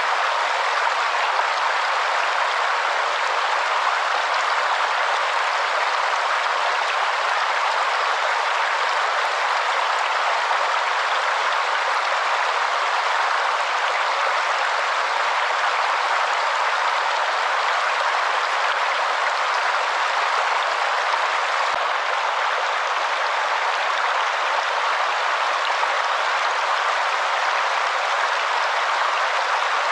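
Waterfall: steady, even rushing of falling water with no low rumble.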